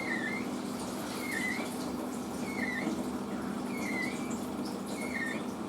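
Washing machine drum tumbling with a short squeak on each turn, about one every 1.3 seconds, over a steady motor and pump hum. The squeak came on suddenly, and the owner puts it down to the machine having gone unused for a long time.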